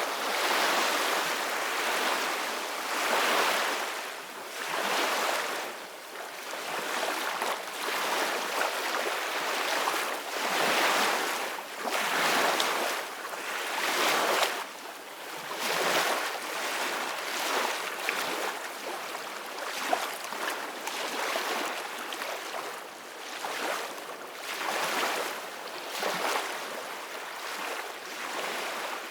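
Ocean waves breaking on a shore in repeated surges, each swell of surf rising and falling every second or two.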